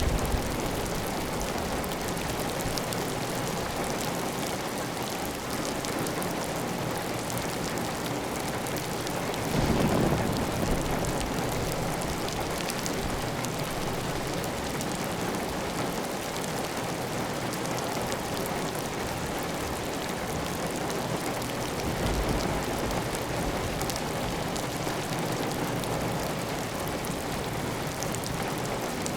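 Heavy, steady rain on a clay tile roof, with water running off the roof edge. A brief low rumble swells about ten seconds in, and a smaller one around twenty-two seconds.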